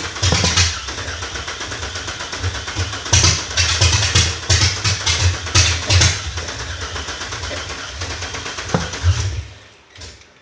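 B3800's engine running on its first start-up, idling with a series of short throttle blips, then shut off about nine and a half seconds in.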